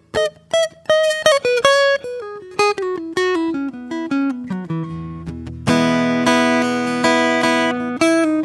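Solo acoustic guitar played softly: a descending line of single plucked notes, then a chord strummed about two-thirds of the way through that rings out for a couple of seconds.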